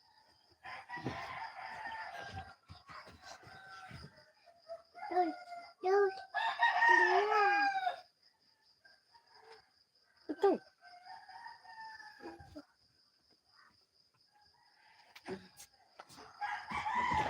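Roosters crowing several times, one after another, the loudest crow about six to eight seconds in, over a thin steady high-pitched whine.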